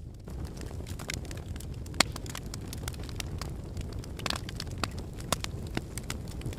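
Wood fire burning in a fireplace: steady low rumble of the flames with irregular crackles and sharp pops from the burning logs, the loudest pop about two seconds in.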